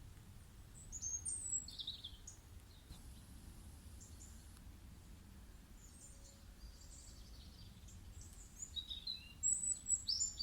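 Birds chirping quietly in short high calls, a cluster about a second in and another near the end, over a faint steady low background noise.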